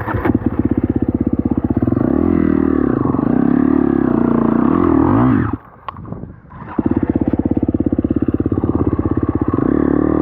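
KTM 250 SX-F four-stroke single-cylinder dirt bike engine being ridden, revving up and down with the throttle. About halfway through the throttle is shut off and the engine drops to near idle for about a second, then revs back up.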